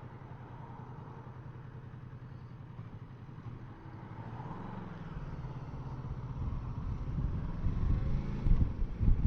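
Kawasaki Versys 650 parallel-twin motorcycle engine idling steadily, then revving and growing louder about halfway through as the bike pulls away, with a rough low rumble building toward the end.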